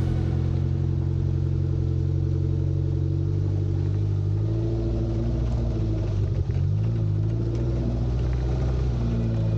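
Suzuki Samurai engine running under way along a dirt track. The engine note holds steady, then shifts pitch about two-thirds of the way through with a brief knock.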